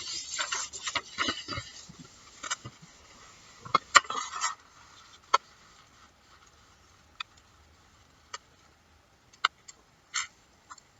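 Sheet of paper rustling and being creased as it is folded, with scattered light clicks; the handling sounds stop about five seconds in, leaving only a few faint clicks.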